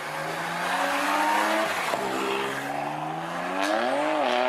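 Car engine accelerating hard, its pitch climbing, dropping sharply as it shifts up just under two seconds in, then climbing again and wavering near the end.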